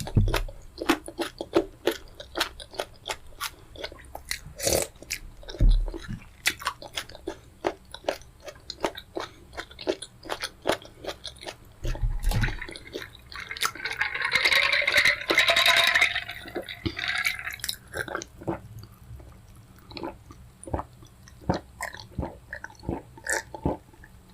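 Close-miked eating sounds of fufu with pepper soup: wet chewing and lip-smacking clicks throughout, with a louder, longer noisy stretch of about three seconds around the middle.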